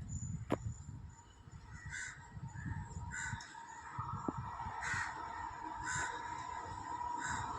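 Crows cawing, short calls about once a second, over a steady hum and rumble that build toward the end as a train approaches on the line.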